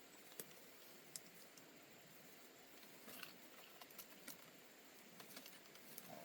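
Near silence, with a few faint short clicks scattered through it.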